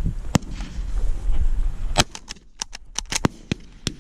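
Shotgun shots: a sharp crack just after the start and a louder one about two seconds in, followed by a quick run of lighter cracks and clicks. A low wind rumble lies under the first half.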